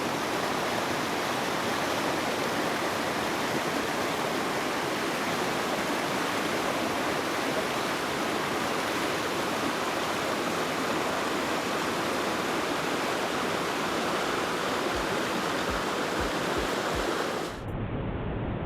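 Rushing water of a mountain stream spilling over small waterfalls, a steady, even noise. Near the end it cuts off abruptly and gives way to a duller, muffled noise.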